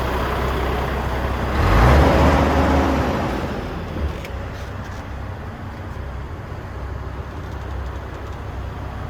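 A motor vehicle running with a steady low rumble. It grows louder about a second and a half in, then fades over the next couple of seconds and settles to a quieter steady hum.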